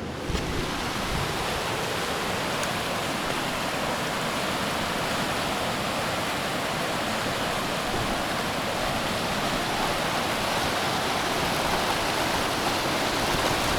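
Fast mountain river rushing past the bank: a steady, even sound of churning water, stronger from just after the start.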